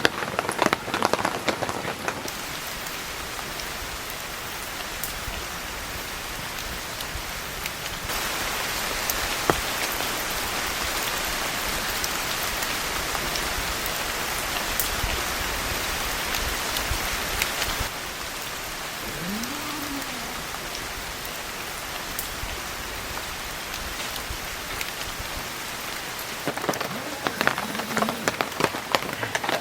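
Heavy rain falling steadily, heavier for about ten seconds in the middle, with close drops pattering sharply near the start and again near the end.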